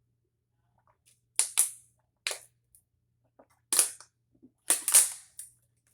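Loud, sharp crunching noises close to the microphone, about six in quick bunches with short silences between, the loudest near the end.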